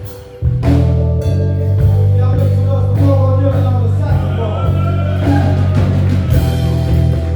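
Live band playing: bass guitar, drums and keys with a melodic lead line over them. The music drops back briefly at the start and comes back in full about half a second in.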